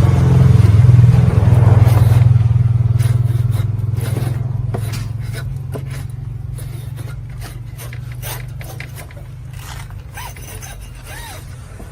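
A low motor or engine hum that is loudest at first and fades steadily away over about ten seconds, with scattered clicks and knocks.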